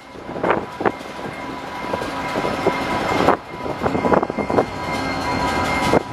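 VIA Rail GE P42DC diesel locomotive and its passenger train approaching along the track, the engine and rail noise growing steadily louder.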